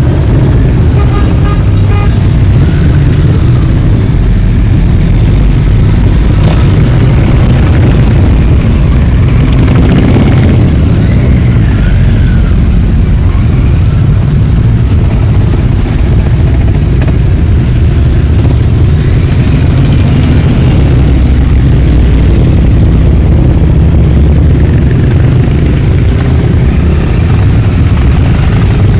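A stream of motorcycles riding past, their engines running loudly and continuously, with engine notes rising and falling as individual bikes accelerate by.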